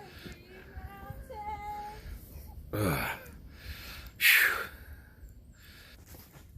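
A person's voice: high wavering vocal sounds, then a cry that falls steeply in pitch about three seconds in, and a loud, short, breathy gasp or shriek just after four seconds.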